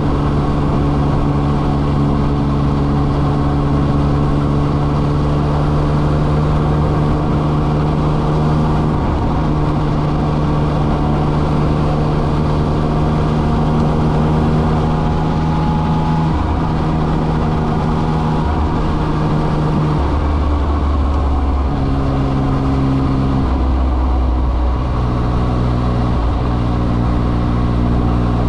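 Yamaha XSR900's inline-three engine running at steady cruising revs, with wind rushing over the microphone. In the second half the engine note steps up and down in pitch several times as the revs change.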